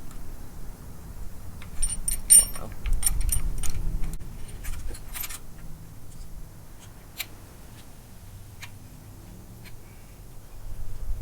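Metal parts of a steel harmonic balancer puller clinking and rattling as it is handled and fitted: a cluster of ringing clinks in the first few seconds, then a few scattered light ticks.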